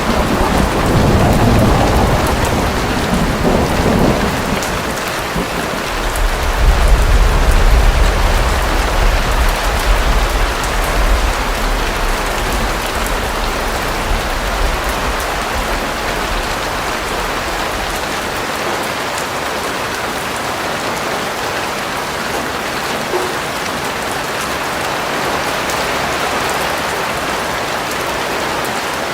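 Steady heavy rain with a long rumble of thunder through the first half, loudest a few seconds in, which dies away about two-thirds of the way through and leaves only the rain.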